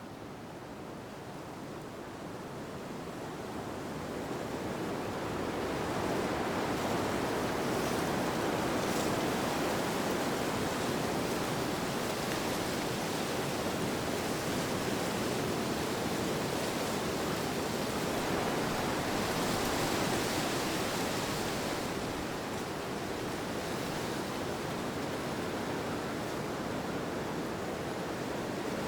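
Ambient wind sound: a continuous rushing hiss that fades in over the first few seconds, swells about two-thirds of the way through, then eases a little.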